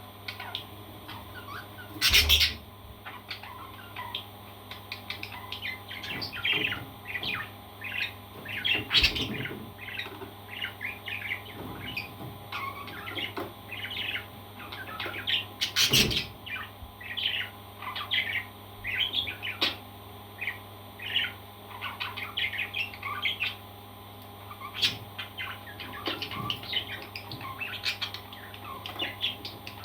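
Parrot chirping and chattering in a rapid stream of short calls. A few sharp knocks sound over it, the loudest about two seconds in and again around sixteen seconds. A steady low hum runs underneath.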